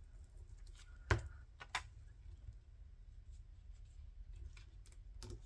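Quiet handling of paper and craft tools on a work table: two sharp taps about a second in, a little over half a second apart, then faint small ticks, over a low steady hum.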